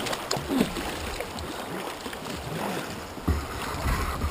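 Water splashing and plopping around a kayak on a river, with short gurgling drips and a few low knocks against the hull.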